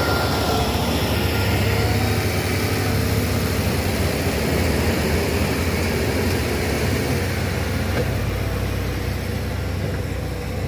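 Heavy diesel engine of a bulldozer or dump truck running steadily with a low hum, easing off slightly near the end.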